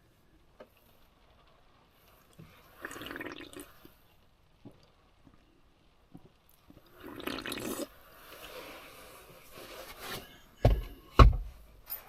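A drink being taken, with two short bursts of liquid sound a few seconds apart, then two heavy thumps near the end.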